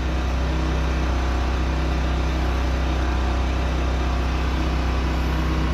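A steady low mechanical hum, like a motor running, with a few even tones and no change in level.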